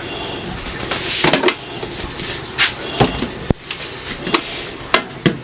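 Jars and food containers knocking and clattering as they are handled and set down while a refrigerator is emptied: a string of separate knocks, with a rustle about a second in.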